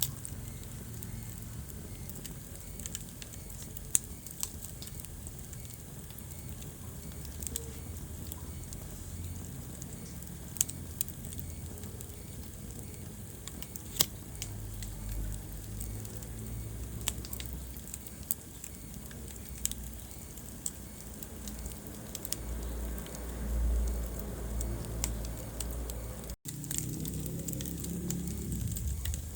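Wood fire burning in a fireplace: a steady low rumble of flames with scattered crackles and sharp pops, the loudest pops about 4 and 14 seconds in. The sound cuts out for an instant near the end.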